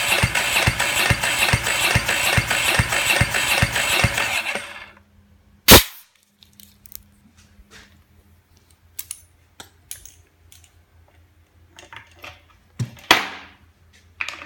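Ducati 749 L-twin engine cranking on its starter motor for a compression test, with a steady pulsing rhythm of about four beats a second that stops about 5 s in. A single loud sharp click follows, then scattered small clicks and, near the end, a short sharp burst that tails off.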